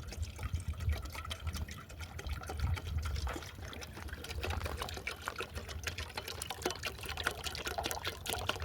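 Water pouring and trickling, with many small wet clicks and splashes.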